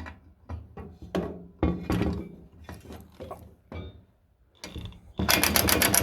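Tools knocking and clattering against a bolted fitting in a string of separate thunks while a stuck bolt is worked loose, then, about five seconds in, a power tool starts up with a loud, fast, even rattle.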